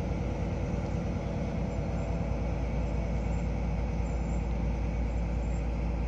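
Steady low rumble of a diesel-hauled train moving slowly past alongside the platform.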